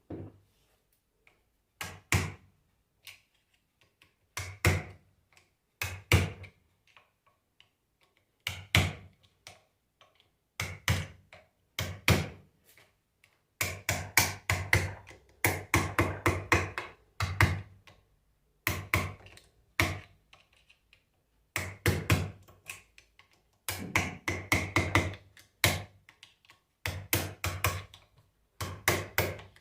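Hammer blows on alternator parts during bearing removal: single knocks a second or two apart at first, then, from about halfway in, quick runs of rapid strikes with short pauses between them.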